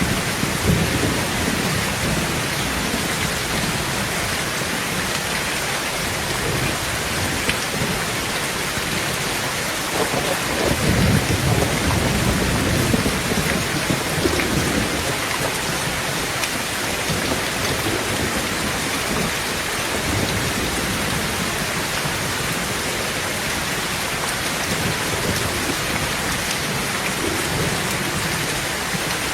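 Heavy rain falling steadily on a tin tent roof, with thunder rumbling several times, loudest about ten to thirteen seconds in.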